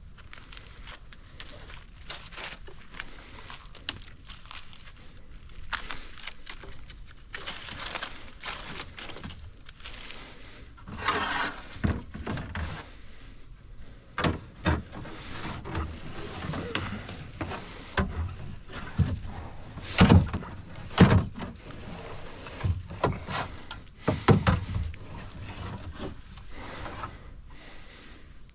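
Plastic kayak hull knocking and scraping as a person shifts and climbs about in it, with irregular thumps and rustling, the heaviest knocks about two-thirds of the way through.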